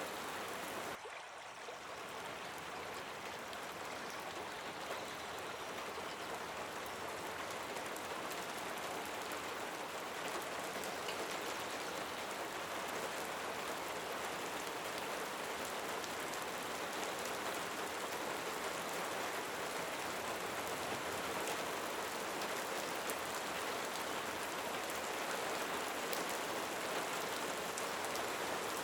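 Steady rainfall: an even hiss of rain with fine drop patter. It dips briefly about a second in, then carries on evenly.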